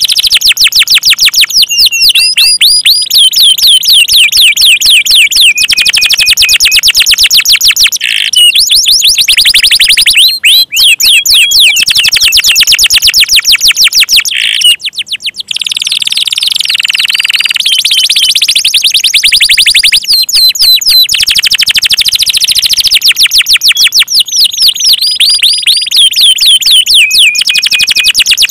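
Domestic canary singing a loud, continuous song of rapid trills: fast runs of repeated down-sweeping high notes that change to a new trill every second or two, with a brief break about halfway through.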